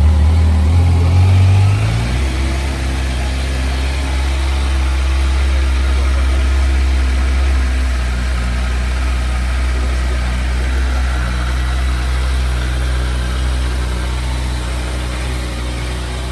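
Kawasaki Versys 1000 GT's inline-four engine idling just after a start. It runs fast for about two seconds, then drops to a steady lower idle.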